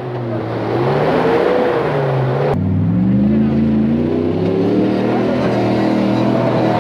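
Off-road 4x4 engine revving hard under load, its pitch rising and falling. There is an abrupt change about two and a half seconds in, after which the note climbs again.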